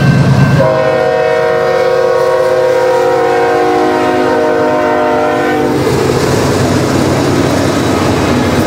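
A train horn sounds a long, steady chord of several notes for about five seconds. It starts after a low rumbling hum and then cuts off, leaving the rushing noise of the moving train.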